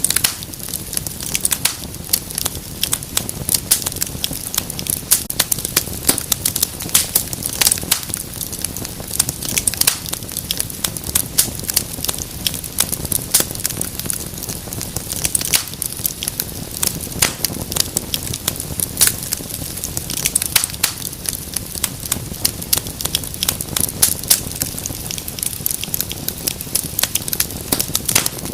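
Wood fire crackling in a fireplace: a dense run of sharp pops and snaps over a steady low hiss.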